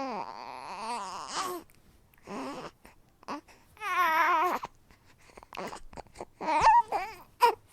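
Newborn baby vocalizing contentedly: a string of separate coos and babbles, each with a wavering, warbling pitch, some drawn out over a second and a few short and sharp near the end.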